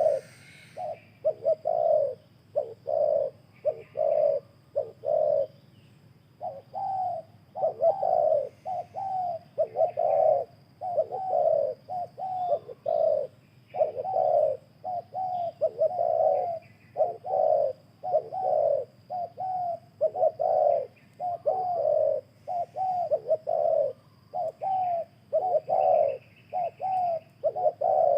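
Spotted doves cooing in an unbroken run of short, low coos, one or two a second: a decoy dove calling to lure a wild one in.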